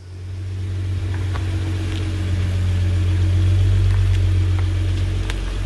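Nissan GT-R's twin-turbo V6 idling: a steady low drone that swells in over the first second, then holds an even pitch with no revving, with a few faint ticks over it.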